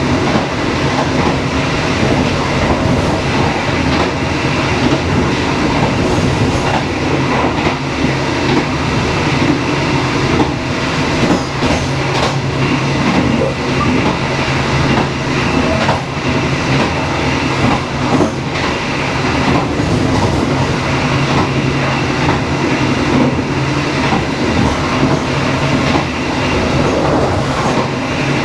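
Dharmawangsa passenger train running steadily along the track: a continuous loud rumble of wheels and carriages with a steady low drone.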